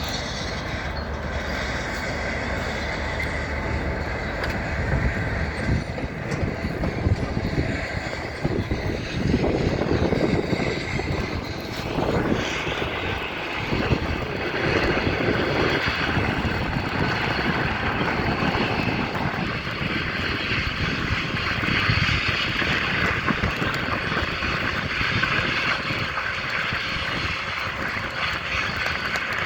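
Steady engine-like machinery noise running throughout, changing in tone about twelve seconds in and again around twenty seconds.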